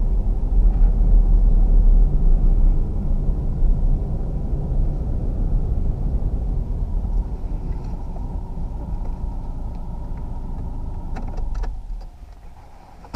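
Ford KA+'s 1.2-litre four-cylinder petrol engine running at low revs, heard from inside the cabin as the car rolls slowly across a parking lot, the rumble fading gradually. Near the end come a few short clicks, and then the engine rumble drops away.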